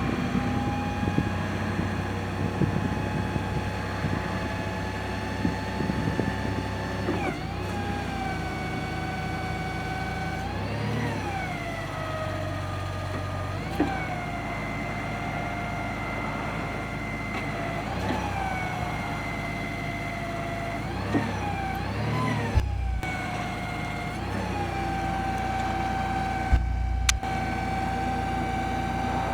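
Crown CG70S-7 propane forklift running with a steady whine whose pitch swoops up and falls back several times as the engine speeds up briefly. Two dull thuds come near the end.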